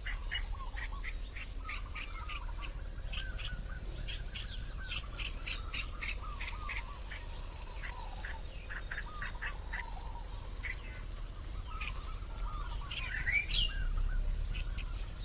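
Many quick, short bird chirps, over a high thin tone that slowly rises and falls.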